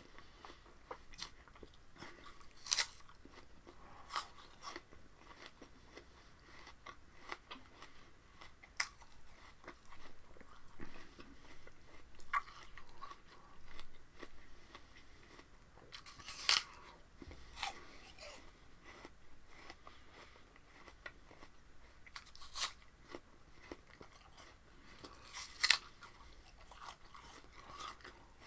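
A person chewing raw spinach close to the microphone: irregular crisp crunches and mouth sounds, with louder crunches a few seconds in, around the middle and near the end.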